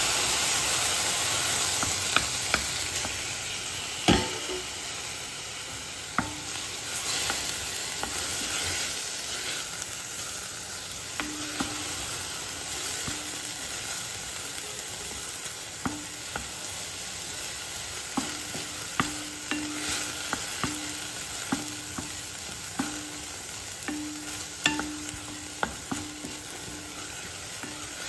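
Chopped tomato, onion and green chillies sizzling in hot oil in a stainless steel pan while a spatula stirs them, with frequent scrapes and taps of the spatula against the pan and a louder knock about four seconds in. The sizzle is strongest at first, with the fresh tomato just added, and then settles to a lower steady frying hiss.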